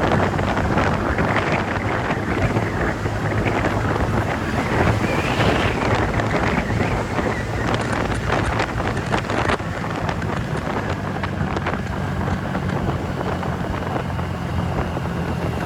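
Wind rushing over the microphone while riding, over the steady drone of a TVS Ntorq 125 scooter's single-cylinder engine. A run of sharp crackles from wind buffeting comes about eight to nine and a half seconds in.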